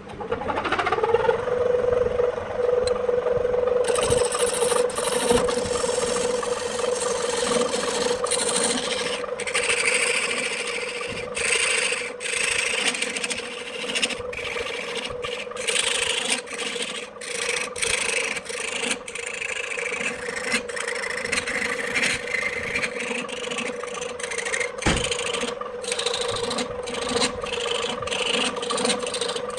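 Wood lathe motor spinning up with a rising whine that settles into a steady hum. About four seconds in, a tool starts scraping against the spinning wood-and-epoxy blank, in many short passes broken by brief gaps.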